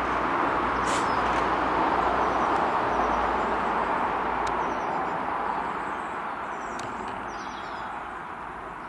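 Diesel multiple unit train running along the line, its rumble building for the first few seconds and then fading steadily. Birds chirp faintly over it.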